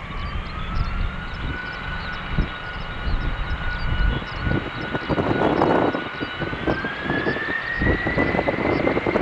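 Aircraft turbine engine whining and rising in pitch at the start, holding steady, then climbing again about seven seconds in as the engine spools up. Strong wind buffets the microphone with a low, gusty rumble.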